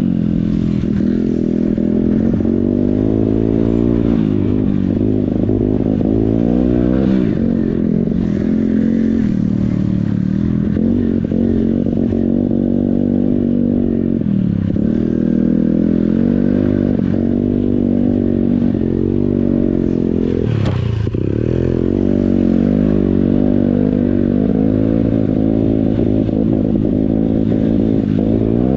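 Yamaha XTZ125's single-cylinder four-stroke engine riding along, the revs rising and falling again and again as the throttle opens and closes. A sharp knock sounds about twenty seconds in.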